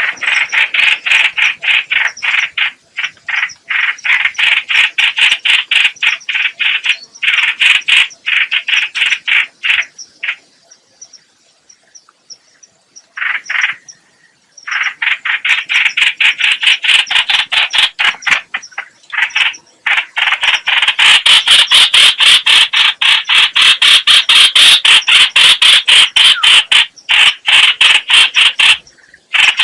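Trao trảo (streak-eared bulbul) calling in long runs of rapid, repeated chattering notes. There is a pause of a few seconds about ten seconds in, and the notes come faster and louder from about two-thirds of the way through.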